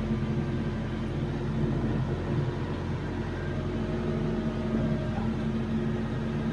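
TYM T574 compact tractor's diesel engine running steadily at a constant speed.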